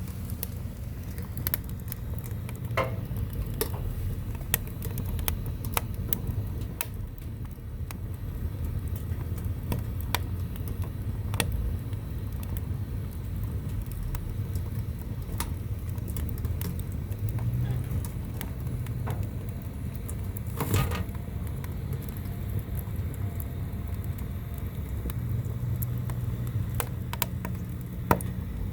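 Firewood burning, with irregular sharp pops and crackles over a steady low rumble.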